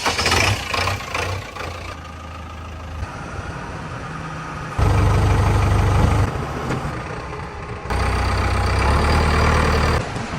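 Fiat 640 tractor's diesel engine running, with two louder surges of a second or two each, about five seconds in and about eight seconds in.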